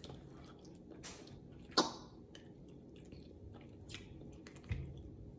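Close-up wet chewing and lip smacking while eating a boiled egg from a seafood boil in garlic butter sauce, with small scattered clicks and one louder mouth sound about two seconds in.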